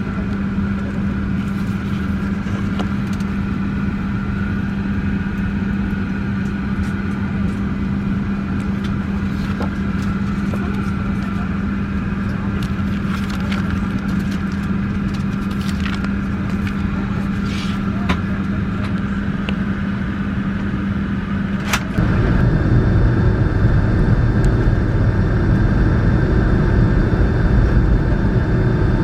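Steady cabin noise inside a Boeing 757-300 airliner: a constant low hum with a few light clicks. About 22 seconds in it changes abruptly to a louder, deeper rumble.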